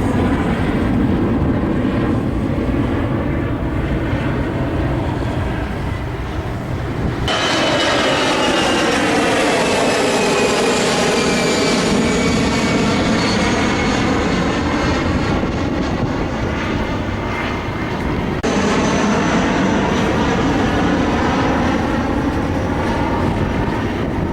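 Jet airliner engines running loudly, the Airbus A350's Rolls-Royce Trent XWB turbofans. About seven seconds in the sound switches abruptly to a layered whine that falls in pitch and then climbs again, and it switches abruptly back about eighteen seconds in.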